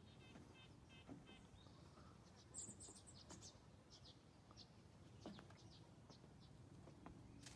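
Near silence with faint bird chirps: a scatter of short, high notes about two to five seconds in.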